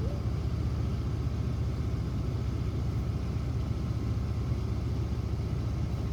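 Car engine idling: a steady low rumble with an even pulse.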